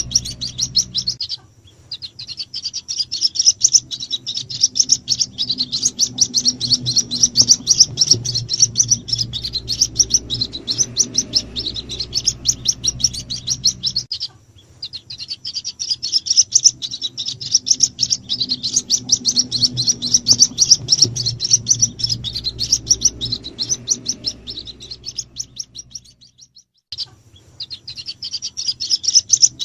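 White-breasted waterhen chicks cheeping: a dense run of rapid, high-pitched chirps played as a lure call to draw in the parent birds. The cheeping stops briefly about every twelve seconds, then starts again.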